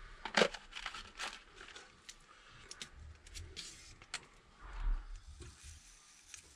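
Small clicks, taps and scrapes of metal parts being handled and fitted while a motorcycle brake caliper is reassembled, with the sharpest click about half a second in and a dull knock near the end.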